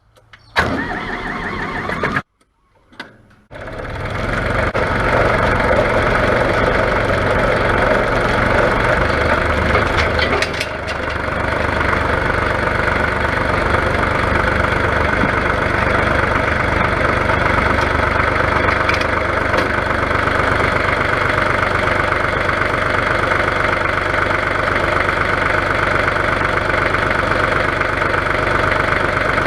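Diesel engine of a 1982 Ford 1900 compact tractor running steadily. The sound drops out to silence twice within the first few seconds.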